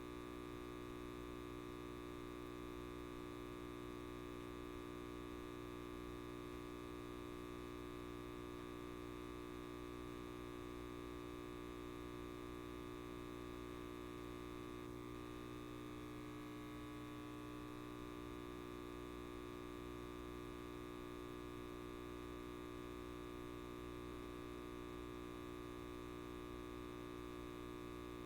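Electric light bulb buzzing with a steady mains hum, a fixed stack of tones that holds unchanged throughout.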